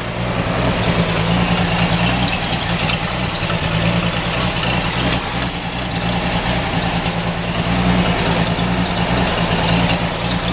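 Chevrolet 235 inline-six in a 1946 Chevy 2-ton cab-over truck idling steadily, through a blown-out glasspack muffler, just after a cylinder head rebuild that freed two stuck exhaust valves.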